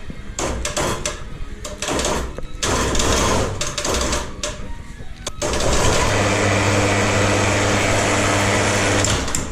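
A small motor run in short on-off bursts for about five seconds, then running steadily with a humming tone for about three and a half seconds before it stops.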